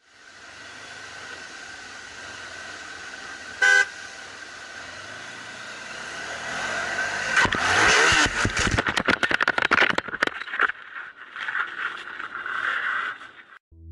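Road noise inside a moving car, then a short horn toot about four seconds in. A few seconds later comes a loud crunching, clattering collision lasting about three seconds, followed by a rougher scraping noise that stops shortly before the end.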